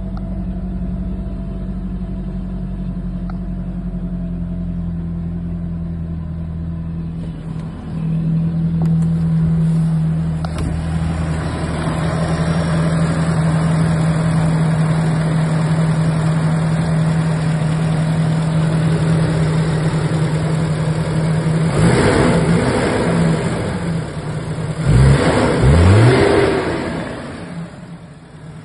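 Mitsubishi-type 4G64S4 2.4-litre inline-four engine of a Derways Shuttle idling steadily, then blipped twice near the end, the pitch rising and falling each time. From about ten seconds in it is heard close up at the open engine bay, louder and noisier.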